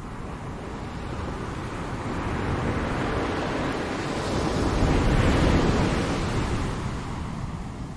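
Ocean surf: a wave builds to a loud wash about five seconds in, then recedes into a lower steady rush.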